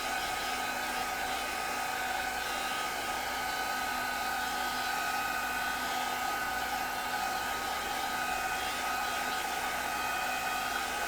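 Craft heat gun running steadily, an even blowing rush with a constant motor whine, used to heat and dry the paper work.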